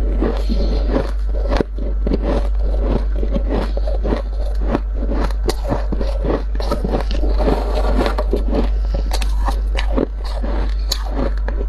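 Dry, squeaky freezer frost being scraped and crunched: a dense run of crackling, crunching clicks over a steady low hum.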